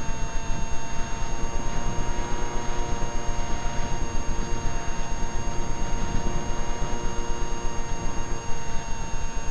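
Skyartec Skyfun's brushless electric motor and 7x6 propeller running at a steady high whine, heard from a camera on board the plane, with wind buffeting the microphone in a rough, fluctuating rumble.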